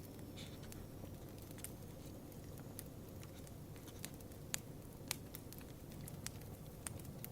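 Campfire crackling faintly: scattered sharp pops and snaps over a low steady rumble.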